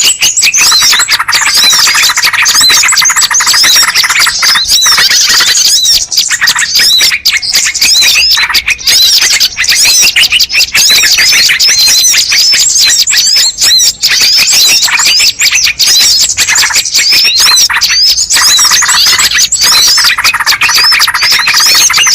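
Loud, dense chorus of many small birds chirping and twittering without a break, many quick calls overlapping: a recorded bird-lure call (suara pikat).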